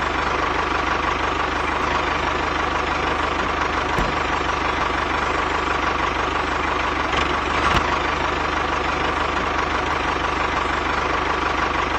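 Small motor of a homemade mini machine running steadily, with a steady whine and two faint clicks, one about four seconds in and one near eight seconds.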